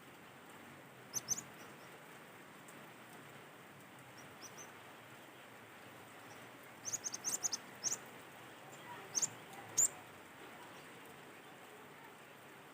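Cinereous tit (gelatik batu) calling in short, sharp, high-pitched chirps: a pair about a second in, a rapid cluster around the middle, then two more loud single notes, over a faint steady hiss of outdoor background.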